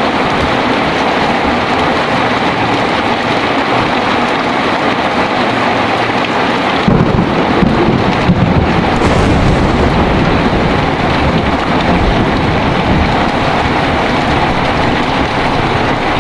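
Heavy rain falling steadily, with a roll of thunder breaking in about seven seconds in and rumbling low for several seconds before fading back under the rain.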